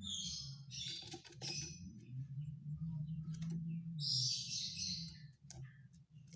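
Iora (cipoh) calling in harsh, clicking rattles: several short bursts in the first two seconds and a longer rasping one about four seconds in. A steady low hum runs underneath.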